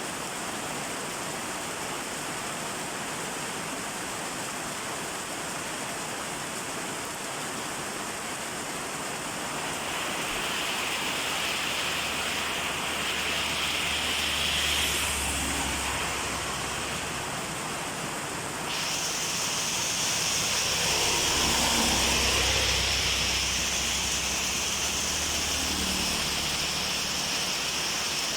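Steady rain falling, a dense even hiss that grows heavier about ten seconds in and shifts sharply about two-thirds of the way through. A low rumble comes and goes twice under it.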